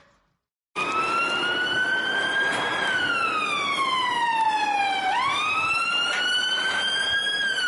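Wailing siren, starting abruptly about a second in, its pitch rising and falling in long slow sweeps, with one quick climb back up about five seconds in.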